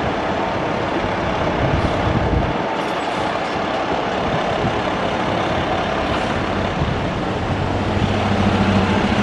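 Heavy fire truck's diesel engine running as the apparatus moves along the street, over a steady rumble of road noise. A low, steady engine note grows stronger near the end.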